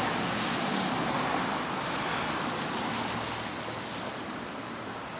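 A steady rushing noise that slowly fades over the few seconds.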